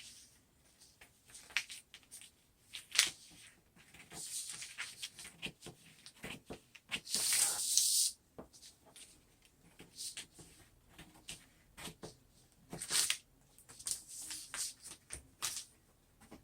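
Hands working with sheets of vinyl and transfer or contact paper: irregular rustling, scraping and light taps, with a longer hissing scrape about seven seconds in.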